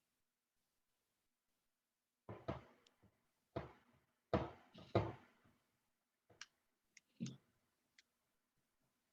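A string of about ten irregular knocks and clicks over a video call, the loudest two close together around the middle.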